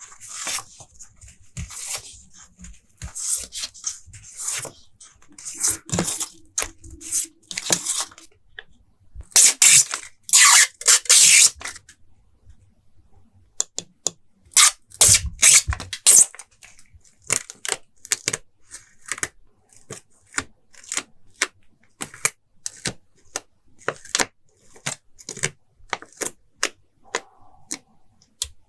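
Journal collage materials being handled: stickers and tape peeling and tearing, paper rustling, and many light taps and clicks. Louder peeling sounds come about a third of the way in and again just past halfway.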